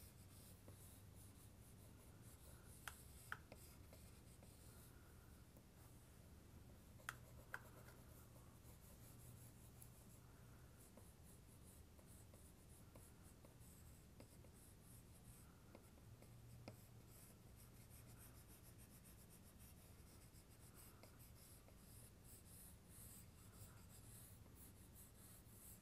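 Faint scratchy strokes of a drawing tool on paper as an area is shaded in, with a few light clicks or taps, over a low steady hum.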